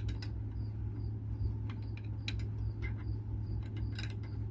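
Scattered light clicks and taps of hand tools working on the underside of a truck's transmission, over a steady low hum. A faint high chirp repeats evenly, about two or three times a second.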